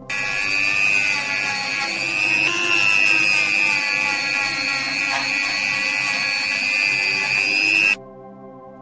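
High-speed electric power tool running with a steady high whine, its pitch dipping slightly about two and a half seconds in. It starts abruptly and cuts off abruptly near the end.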